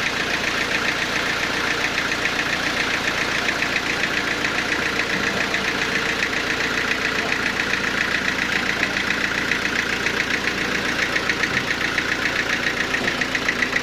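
Sawmill machinery running steadily, with a fast, even pulsing.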